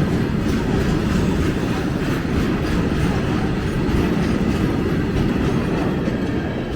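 Loaded coal wagons of a long freight train rolling past close by, their wheels clattering steadily over the rail joints.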